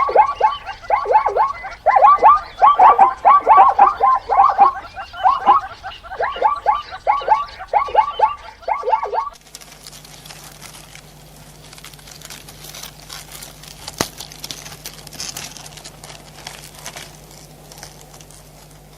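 An animal's rapid series of short high calls, each sliding down in pitch, several a second, for about nine seconds; then it cuts to a faint hiss with a low steady hum and one click.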